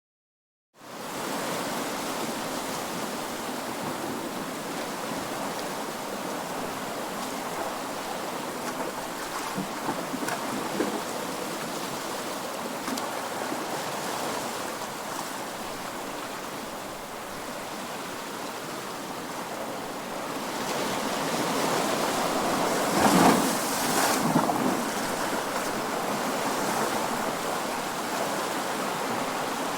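Ocean surf: a steady wash of waves that starts abruptly just under a second in, builds from about two-thirds of the way through, and peaks in a louder breaking wave with a second crash close behind.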